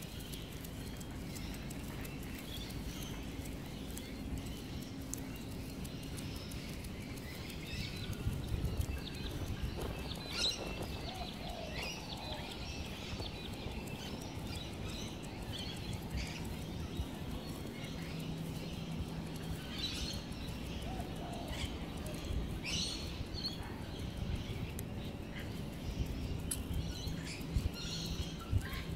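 Wild birds chirping in short, scattered calls over a steady low rumble of outdoor background noise.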